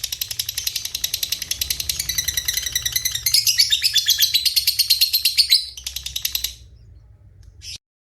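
Songbird master recording mixing canary, cililin and lovebird song: a fast, dense run of high chirps, about ten notes a second, that breaks off about six and a half seconds in, followed by one brief chirp.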